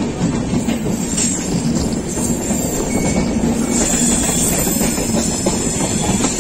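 Passenger express train running at speed: a steady rumble of steel wheels on the rails, with clatter as the coaches pass over rail joints and points.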